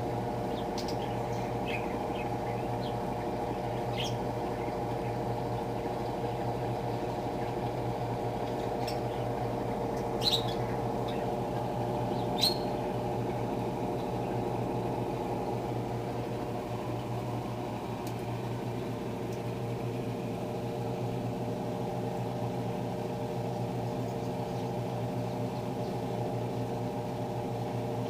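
Electrolux LTR10 washing machine running steadily in its spin cycle: a constant motor hum with several steady tones. A few brief sharp clicks or squeaks, the loudest about ten and twelve seconds in.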